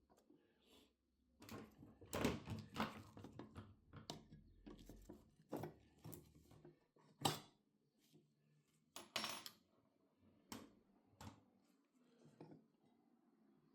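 Metal parts of an old cast-iron charcoal clothes iron being handled, with scattered clinks and knocks. There is a short clatter about two seconds in, a single sharp knock about seven seconds in and another clatter about nine seconds in.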